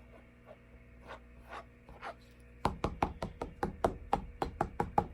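A few faint ticks, then from about two and a half seconds in a quick run of light knocks or taps, about six a second.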